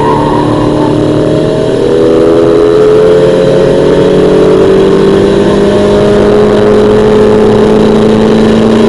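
A 1991 Mazda MX-5's 1.6-litre four-cylinder engine heard from inside the cabin, accelerating along a straight. It gets louder about two seconds in and then climbs slowly and steadily in pitch as the revs build.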